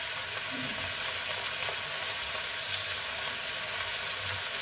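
Diced potatoes frying in hot oil in a black kadai: a steady sizzle with faint crackles scattered through it.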